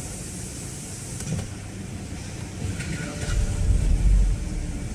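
BMW 520i's N46N four-cylinder petrol engine being started: after a few quieter seconds it catches about three seconds in, loudest for about a second, then settles into a steady idle.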